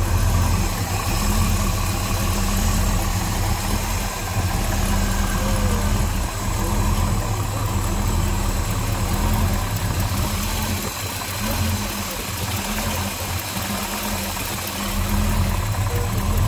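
The 427 V8 of a 1963 Mercury Marauder idling steadily.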